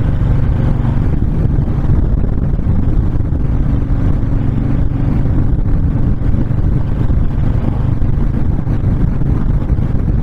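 Honda VTX1300 cruiser's V-twin engine running steadily at cruising speed, with wind rushing past the microphone.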